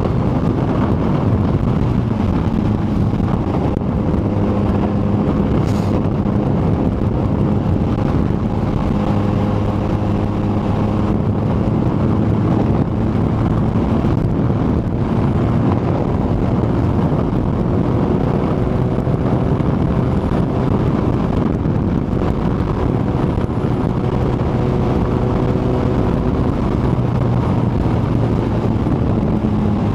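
Kawasaki ZX-14R's inline-four engine running at a steady cruise, its pitch drifting only slightly, with wind rushing over the microphone.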